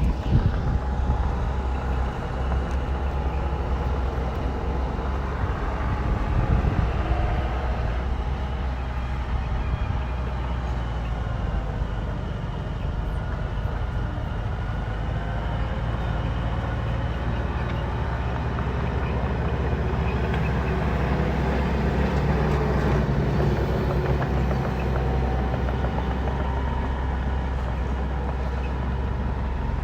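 Diesel engine of heavy earthmoving machinery running steadily under load, its revs rising and falling slowly.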